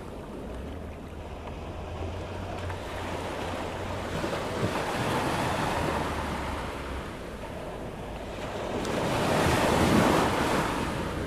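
Ocean surf at high-tide approach: waves washing onto the beach in a rushing noise that ebbs and swells, building to its loudest as a wave breaks about ten seconds in.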